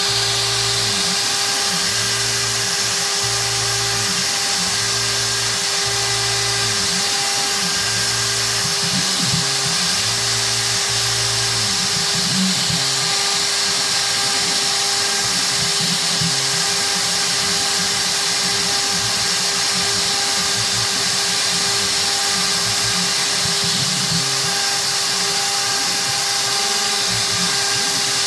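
CNC router spindle cutting G10 fiberglass sheet, a steady high-pitched whine with cutting hiss.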